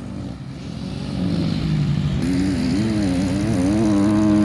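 Dirt bike engine revving on the track. It grows steadily louder as the bike approaches, and its pitch rises and falls with the throttle.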